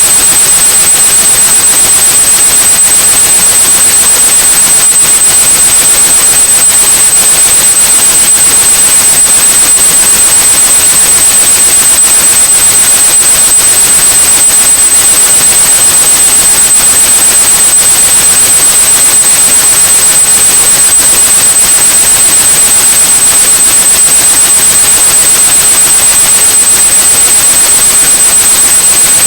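A steady pure tone at about 8,100 Hz over continuous white noise: a tinnitus-masking sound played as one unbroken track.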